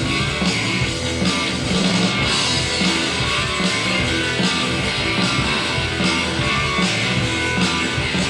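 Live rock band of two electric guitars, bass guitar and drums playing with a steady beat, the drums hitting about twice a second.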